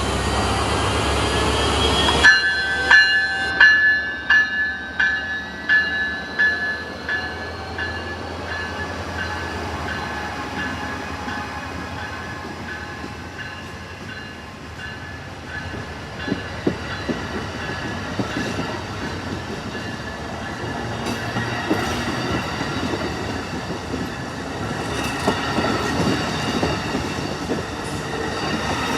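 A train, with a bell-like ringing in repeated strokes that starts suddenly and fades away over several seconds. Later come rail noise and sharp clicks of wheels over rail joints.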